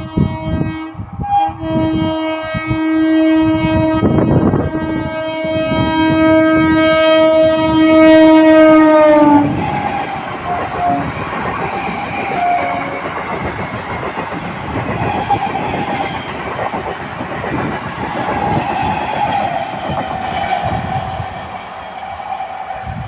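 Electric multiple unit (EMU) local train sounding one long horn blast as it runs through the station at speed without stopping, growing louder as it nears, with a short break about a second in and the pitch falling slightly just before it cuts off. The coaches then rumble past with wheels knocking over the rail joints, fading as the train moves away.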